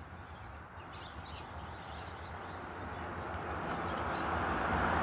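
Road noise swelling steadily as a vehicle approaches, with a few faint bird chirps in the background.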